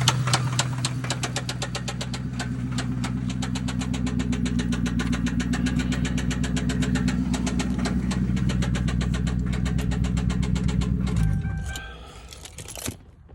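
Lincoln Town Car's swapped-in engine idling with a rapid, even ticking over its steady hum, then shut off about eleven seconds in, its pitch dropping as it winds down; a faint brief tone and a click follow.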